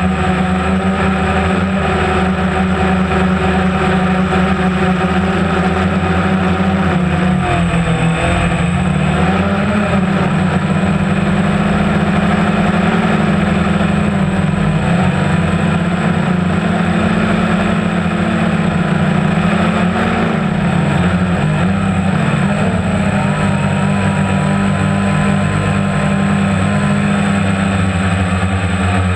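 Boat engine running steadily with a deep, even drone, its pitch shifting briefly about a third of the way in and again past the middle.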